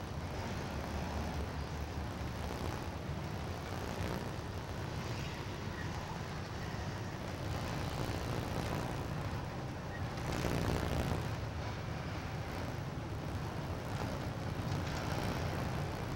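Freight cars rolling across a steel girder railroad bridge: a steady, low rumble of wheels on rail, a little louder about ten seconds in.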